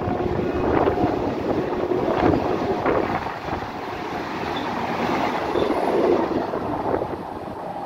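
Vande Bharat Express electric trainset passing close by at speed: a steady rush of air and wheel noise on the rails, with a few sharp wheel knocks. It eases off toward the end as the last coaches go by.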